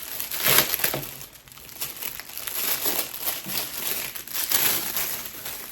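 Plastic packaging crinkling and rustling in irregular bursts as it is handled, loudest about half a second in.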